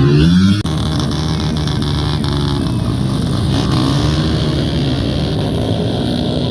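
Motocross motorcycle engines running and revving, their pitch rising and falling, with an abrupt cut in the sound about half a second in.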